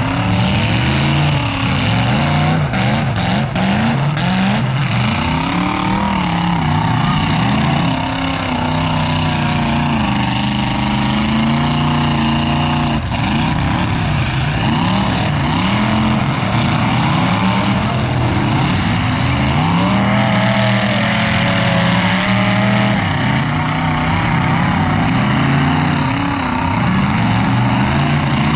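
Several demolition derby cars' engines revving up and down at once, their pitches rising and falling over one another, with a few sharp knocks about three to five seconds in.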